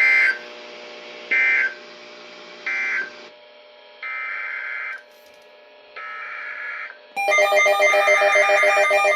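NOAA Weather Radio digital data bursts: three short buzzy squawks about a second apart, marking the end of the message, then two longer squawks, the coded header of the next warning. About 7 seconds in, the weather radio's alert alarm starts, a loud pulsing electronic tone, for the incoming blizzard warning.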